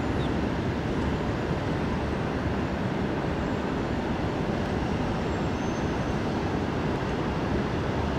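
Steady, even rumbling noise that neither rises nor falls and has no distinct events or tones.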